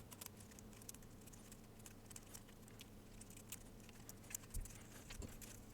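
Near silence with faint, scattered small clicks and ticks from handling the plastic parts of a Nintendo DSi, and two soft low bumps in the last second and a half.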